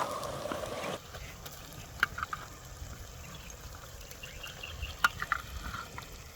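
Chicken frying in a pan with a sizzle, louder for the first second and then fainter, with a few sharp clinks of a utensil about two and five seconds in.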